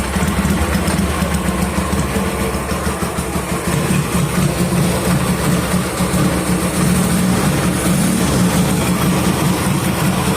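Vintage Honda motorcycle engine idling steadily, running well.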